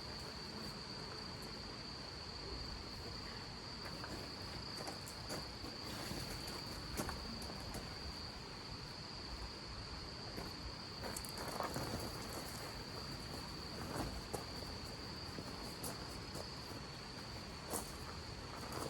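A cricket's continuous high trill, held steady on one pitch, over a steady rushing background with scattered light ticks.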